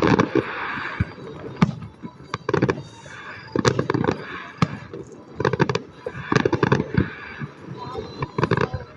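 Fireworks going off in quick clusters of sharp crackling pops every second or two, with a few single louder bangs between them.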